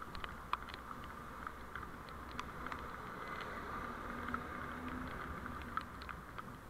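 Steady driving noise from a dashcam recording, with many faint ticks scattered irregularly through it.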